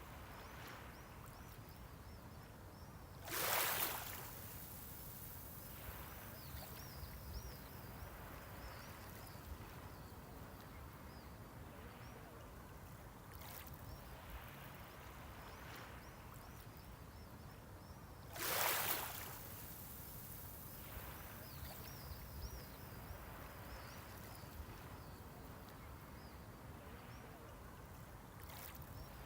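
Sea waves at the shoreline: two waves break in short hissing surges, about fifteen seconds apart, over a steady low wash of the sea.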